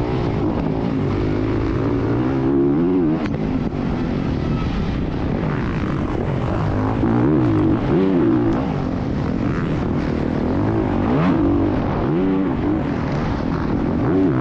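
Dirt bike engine revving up and down over and over as the throttle is opened and shut while riding, its pitch rising and falling several times, over a steady rushing noise.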